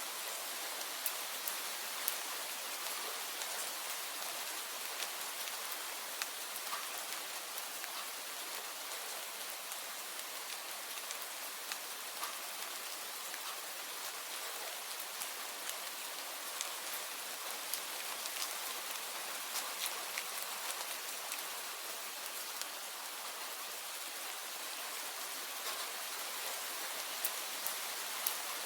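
Steady rain falling: an even hiss with scattered sharper drops ticking on a surface.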